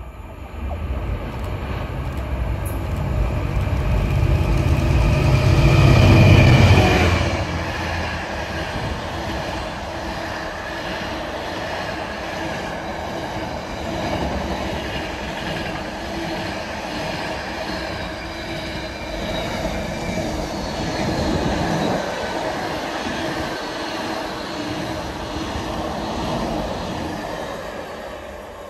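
A train passing close by on the main line. A low rumble builds to its loudest about six to seven seconds in as the front of the train goes past, then the wheels run steadily over the rails for some twenty seconds and fade near the end.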